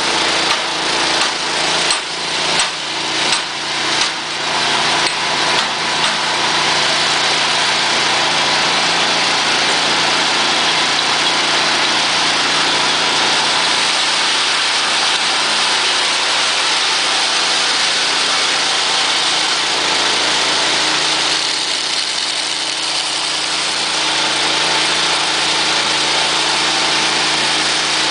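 Petrol engine driving an extruder, running steadily. For the first few seconds the sound dips and recovers about one and a half times a second.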